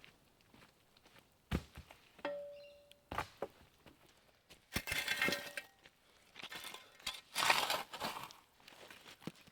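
Camp gear being handled and packed: a few sharp knocks, one clink that rings briefly like metal or glass, then two spells of rustling and scraping.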